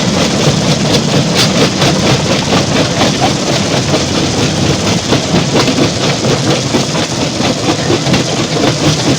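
Stone crushing plant machinery running steadily under load, with a dense, irregular clatter of rock.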